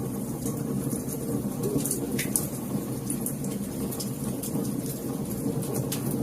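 Wood fire crackling: frequent small irregular pops and snaps over a steady low rumble of burning.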